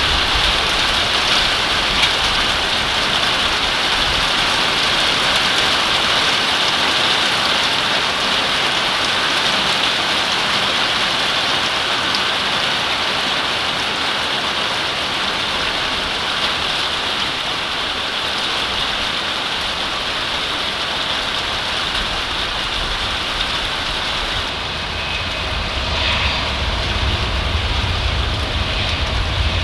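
CFM LEAP-1B jet engines of a Boeing 737 MAX 8 running with a steady, hissing roar. Near the end the hiss eases and a deeper rumble grows.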